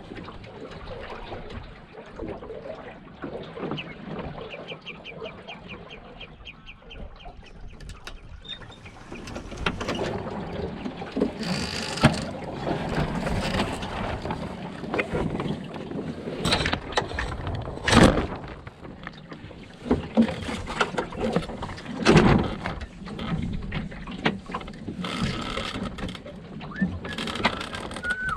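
Enterprise sailing dinghy under way: water rushing and slapping at the hull with wind on the microphone, a quick run of ticks about three seconds in, and several sharp knocks later on.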